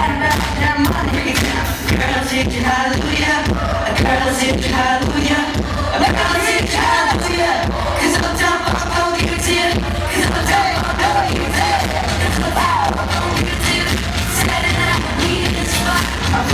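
Live pop-funk band music with a steady driving beat, and children's voices singing over it, played loud through a concert sound system.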